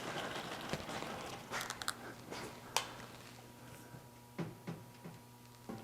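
Scattered light clicks and knocks over a steady low hum, with a faint steady tone joining about two-thirds of the way through.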